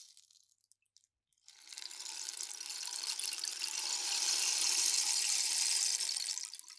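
Rainstick turned over: the pebbles inside trickle down through the tube, a rain-like pattering cascade. A previous pour dies away at the start, a few stray pebbles tick in a second of near silence, then a new pour starts about a second and a half in and runs steadily, fading near the end.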